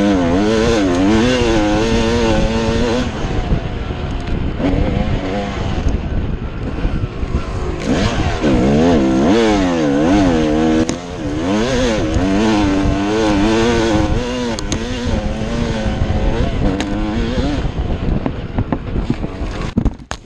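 Two-stroke Yamaha YZ250 dirt bike engine being ridden, its pitch repeatedly rising and falling with the throttle and gear changes. Heavy rushing noise runs underneath, and the engine note fades out near the end.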